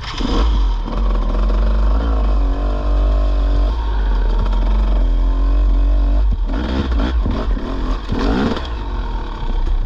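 Dirt bike engine revving up and easing off as it is ridden, with a heavy low rumble through the first six seconds.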